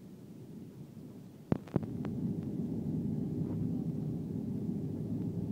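Steady low hum of an Airbus A320 cabin at the gate, with two sharp clicks about a second and a half in. After the clicks the hum gets a little louder and takes on a steady tone.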